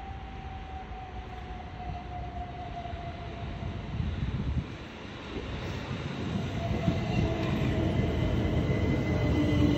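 Southern electric multiple unit pulling into the platform and slowing: the rumble of wheels on rail grows steadily louder as it approaches, with a thin whine that slowly falls in pitch as the train loses speed.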